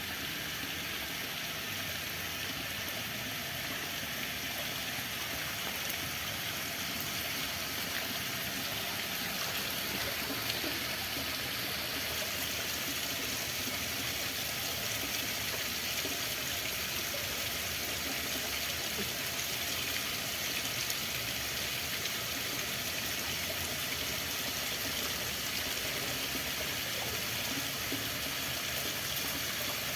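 Water flowing, a steady, even rushing sound without a break.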